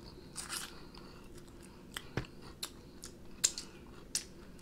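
Close-miked chewing of chicken wing: quiet mouth sounds with a handful of short, sharp smacks and clicks spread through.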